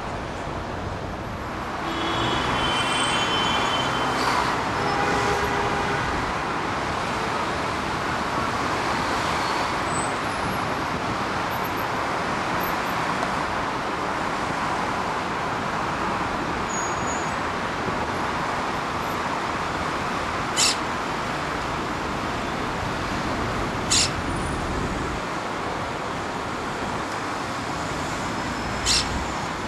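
Steady outdoor background noise with no clear pitch, with a few brief higher tones early on and three or four short, sharp sounds in the second half.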